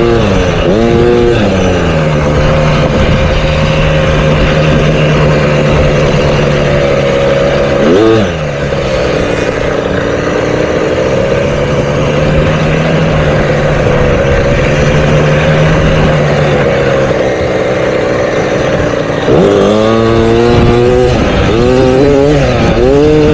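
Motocross bike engine running at high revs, its pitch held nearly steady for long stretches. The revs drop and snap back up quickly about eight seconds in, and rise and fall rapidly several times near the end.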